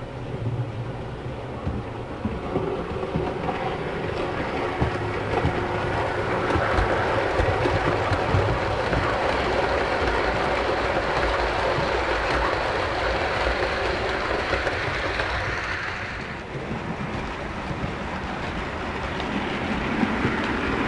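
OO gauge model diesel train running along the track, its motor humming and its wheels clicking over the rail joints. It grows louder about five seconds in, dips briefly about three-quarters of the way through, then builds again near the end.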